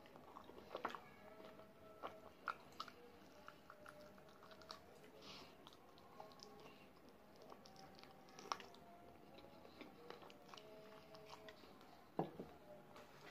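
Close-up chewing and biting of sauce-coated fried chicken wings: a string of small, sharp, wet clicks. A louder click comes near the end.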